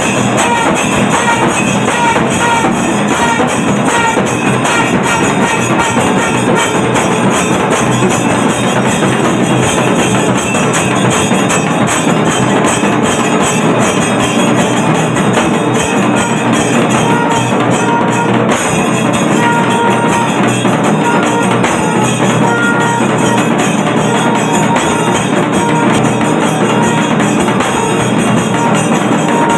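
Kailaya melam, the Shaiva temple percussion ensemble, playing a steady fast rhythm on drums with jangling metal percussion. It carries on without a break.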